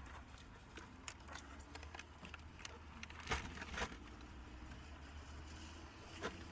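Faint chewing and mouth sounds of someone eating a sub sandwich, with a few soft clicks and crackles, over a low steady hum.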